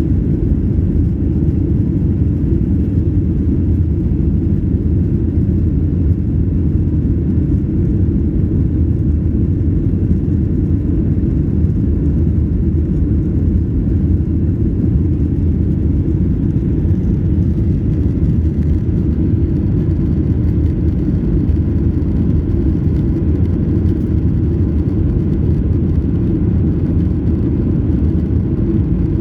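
Steady low-pitched noise of a Boeing 737-800's CFM56-7B jet engines and airflow, heard from inside the cabin, holding even with no change in pitch.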